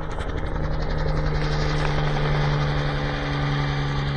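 Crop-spraying helicopter flying low overhead, its engine hum and rapid rotor beat growing louder, loudest in the middle, then easing off slightly near the end.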